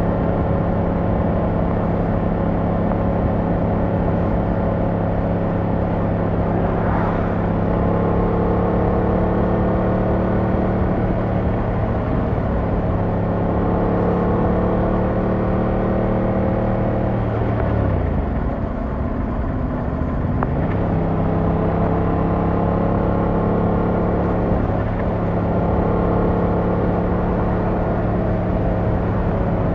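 Yamaha MT-07's 689cc parallel-twin engine and exhaust running at steady cruising revs under way. About eighteen seconds in the revs drop sharply, then climb back a couple of seconds later.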